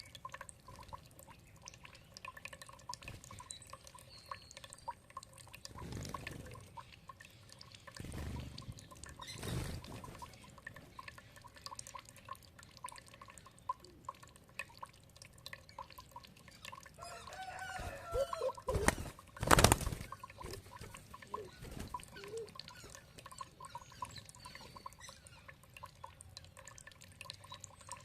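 Water dripping in many small, irregular drips, with a bird giving a short run of falling call notes about two-thirds of the way through. This is followed by two loud splashy bursts of noise.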